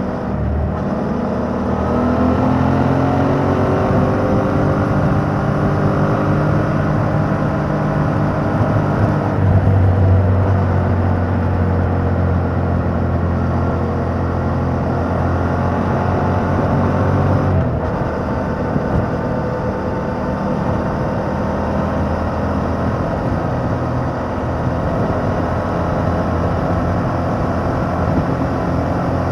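Yamaha MT-07's 689 cc parallel-twin engine through its stock exhaust under way: the revs climb for about nine seconds, break at a gear change, pull again, shift once more about eighteen seconds in, then hold steady at cruise.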